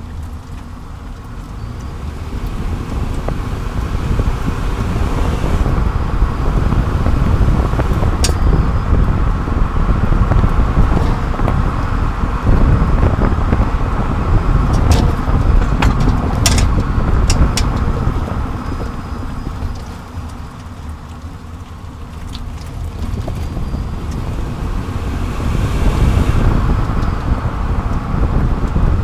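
Road and tyre noise with wind on the microphone from a camera under a moving 30-series Toyota Prius, swelling and fading as speed changes. A few sharp clicks cut through it, one about eight seconds in and several near the middle.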